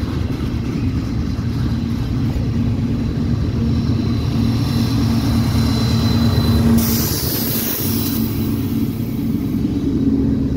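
CSX freight train passing close, its wheels rumbling steadily on the rails. A mid-train distributed-power diesel locomotive goes by partway through, adding a steady engine drone and a faint high whine, then a rushing hiss for a couple of seconds as it passes.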